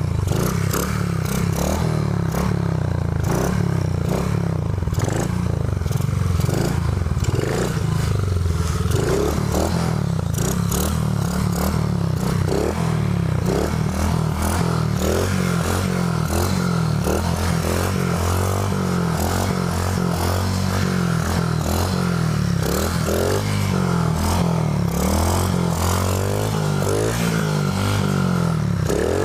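Small Honda 50cc four-stroke single-cylinder pit bike engine running while ridden, its revs rising and falling, with a steady clattering and scraping noise over it.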